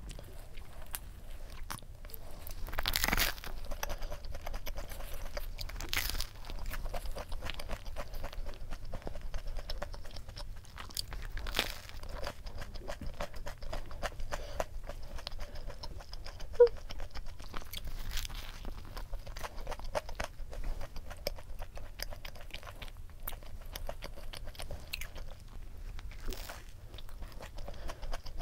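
Close-miked eating: biting into and chewing a soft bread roll stuffed with fried squid chicken, with wet mouth sounds and light crunches, and several louder bites spread through. One sharp click a little past halfway stands out as the loudest sound.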